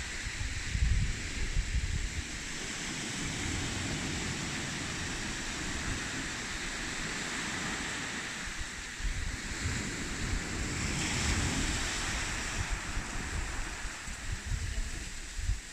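Wind buffeting the microphone in uneven gusts over the hiss of sea surf washing on the beach, the surf swelling louder a little past the middle.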